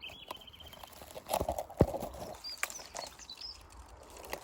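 Close crackling and snapping of twigs and leaves, with one sharper snap near the middle, as brush is handled and pushed through. A short bird trill at the start and a few brief chirps in the background.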